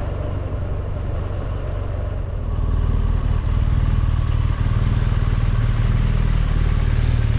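BMW R1200GSA's boxer twin engine running as the motorcycle is ridden, a steady low hum with fine even pulsing that gets louder about two and a half seconds in.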